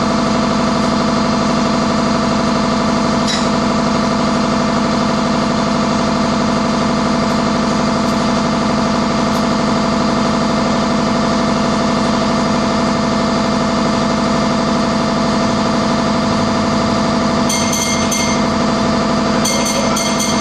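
Steady mechanical drone of an idling engine at constant speed. Near the end, two short bursts of high-pitched beeping cut in over it.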